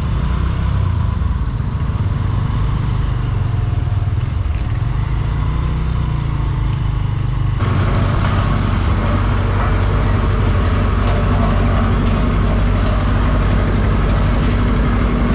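Motorbike engine running steadily while riding, with wind and road noise over it. About halfway through the sound turns abruptly brighter and noisier.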